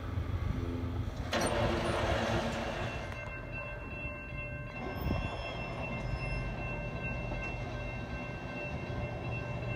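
Metro Gold Line light-rail train on the track, heard as a low steady hum. The sound changes suddenly about a second and a half in. Faint steady high tones sit over it later, and the low hum grows near the end as a train draws closer.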